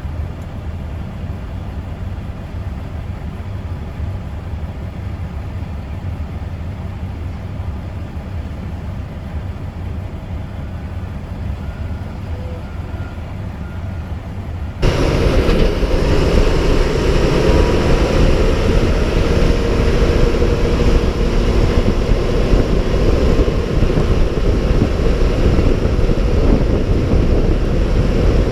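Snowplow truck driving: a steady low engine and road rumble heard inside the cab. About halfway through it cuts abruptly to a louder, rougher rushing noise with a faint steady whine.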